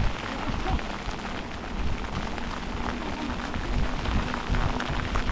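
Wind buffeting the microphone and rain noise while cycling in a shower on a wet path, with a faint steady hum underneath.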